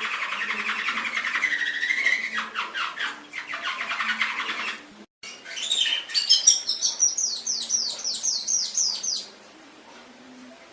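Domestic canary singing: a long fast rolling trill, then after a brief break a higher run of quick downward-sweeping notes. The song stops about a second before the end.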